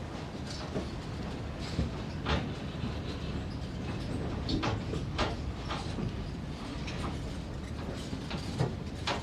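Passenger railcar rolling slowly: a steady low rumble with irregular clanks and rattles.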